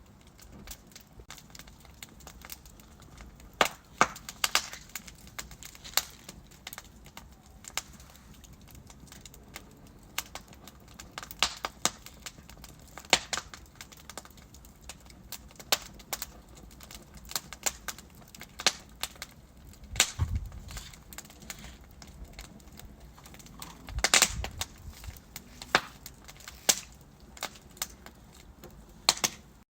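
Burning logs crackling, with irregular sharp snaps and pops over a faint low hiss and a few louder pops among them. The sound cuts off just before the end.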